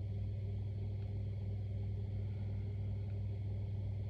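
A steady low hum, unchanging throughout, with no other sound.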